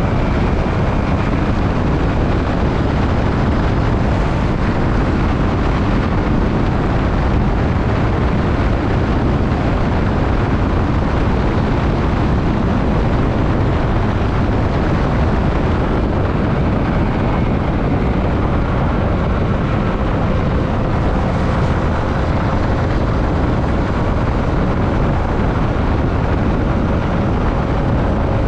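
Steady rush of wind and road noise while riding a Yamaha WR155 motorcycle, with the engine running underneath.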